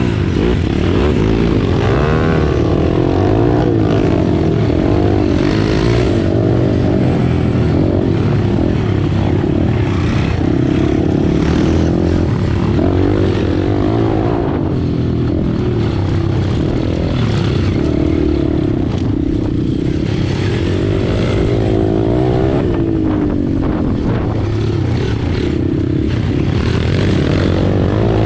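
Pit bike's small single-cylinder four-stroke engine at full running, its pitch repeatedly rising and falling as it revs up and drops back, with steady rushing noise underneath.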